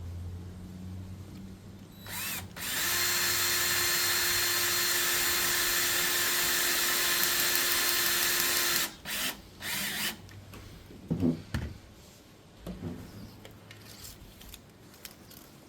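Power drill running at a steady speed for about six seconds, followed by two short bursts of the trigger. A few sharp knocks follow, the loudest just after the drill stops.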